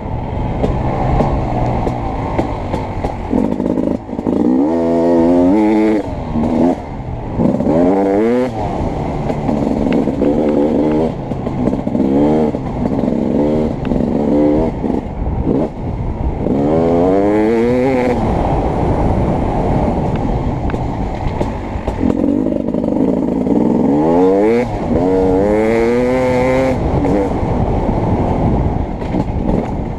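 Beta 300 RX two-stroke dirt-bike engine revving hard and backing off over and over as the bike is ridden on a motocross track, its pitch sweeping up several times. The sound is muffled, with a constant rumble and clatter underneath.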